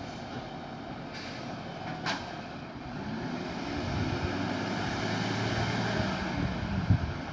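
Garbage truck engine running, growing louder about three seconds in and then holding steady, with a single sharp click near the start.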